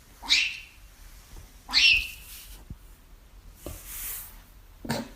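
A cat crying twice, two short high-pitched cries about a second and a half apart, each falling in pitch. A brief hiss follows, then a sharp click near the end.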